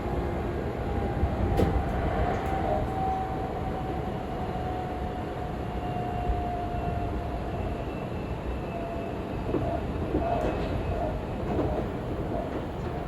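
Seibu 40000-series electric train running at speed, with the steady rumble of wheels on rail. A faint whine falls slowly in pitch through the first half, and a few short clicks sound over the rumble.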